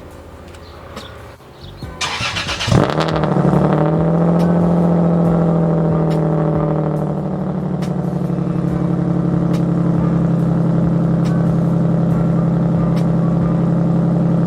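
Lexus engine cold-started through its single-exit exhaust: the starter cranks briefly about two seconds in, the engine catches with a flare of revs, then settles into a loud, steady fast idle that eases down a little a few seconds later.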